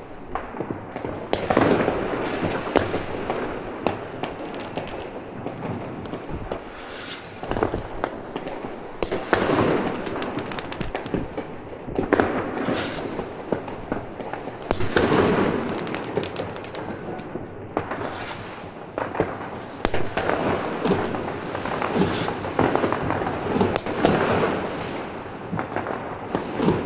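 Many fireworks and firecrackers going off across a city: a dense, unbroken run of overlapping bangs and crackles, with a louder burst every two seconds or so.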